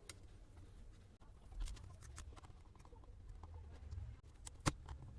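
Scattered small clicks and scrapes of a plastic Bluetooth speaker casing being unscrewed and pried apart by hand, with one sharper click near the end.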